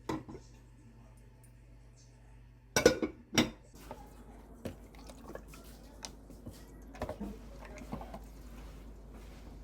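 Glass cups clinking and knocking as they are handled and set down: two loud clinks about three seconds in, then lighter taps and ticks.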